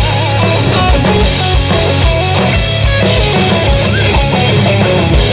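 A live rock band playing an instrumental passage: distorted electric guitars and bass over a drum kit, with a kick drum thumping steadily.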